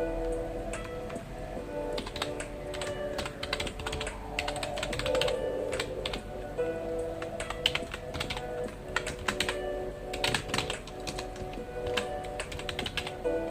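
Typing on a computer keyboard: quick irregular runs of keystroke clicks with short pauses between them.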